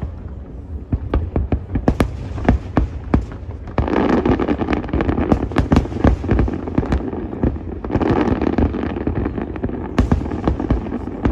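Fireworks display: rapid bangs and booms one after another, thickening into a dense crackling rush about four seconds in and again about eight seconds in.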